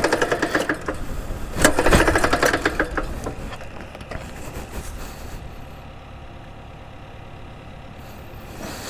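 Axis M200 mini bike's small engine being cranked over in two short bursts of rapid chugging without catching, then going quiet. The owner takes it to mean the engine has failed and won't come back to life.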